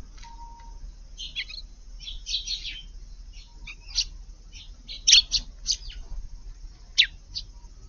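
Eurasian tree sparrows chirping: short, high chirps in scattered clusters, the loudest about five seconds in and again about seven seconds in.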